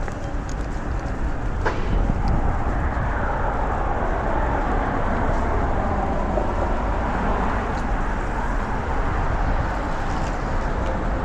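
Road traffic passing close by: steady tyre and engine noise over a low rumble, swelling as a vehicle goes past and easing off near the end.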